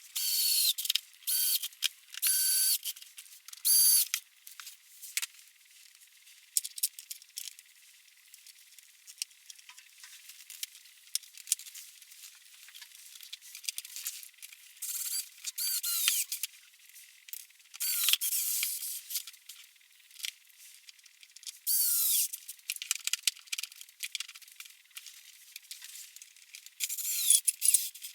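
Metal tools and parts being handled: short clinking, scraping bursts with a squeak in some of them, several times with pauses between.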